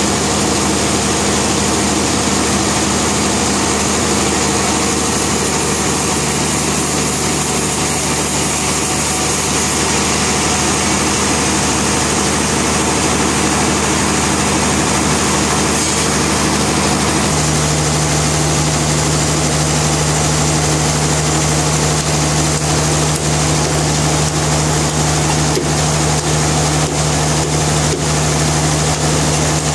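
Sawmill machinery running steadily, a loud continuous mechanical hum that drops slightly in pitch a little over halfway through.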